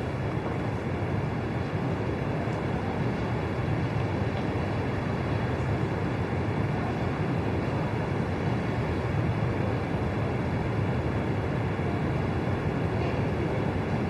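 Steady low rumbling noise with no distinct events, like the inside of a moving vehicle.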